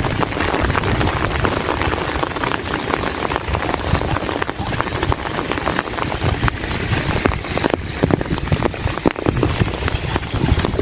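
Heavy rain falling steadily: a dense hiss full of many sharp individual drop strikes, with a constant low rumble underneath.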